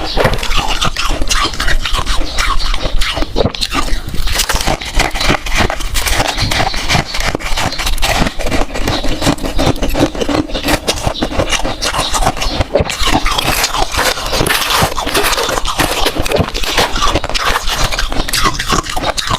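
Close-miked freezer frost being scraped up and crunched in the mouth, a dense unbroken run of crackles and scrapes.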